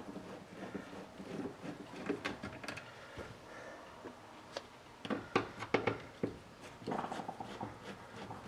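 Hands working a truck door speaker and its wiring loose: scattered light clicks, knocks and rubbing, with a quick run of sharper clicks about five to six seconds in.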